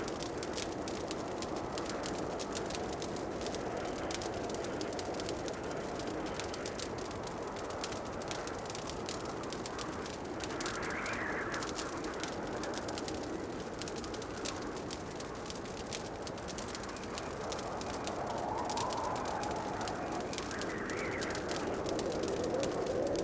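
Wood fire crackling in a fireplace, a dense run of small pops and snaps over a steady low rushing sound. A few soft sounds that rise and fall in pitch come through about every ten seconds.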